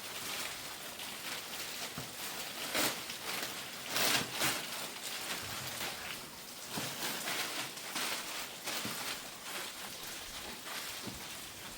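Steady rain falling, an even hiss with a few briefly louder moments around three and four seconds in.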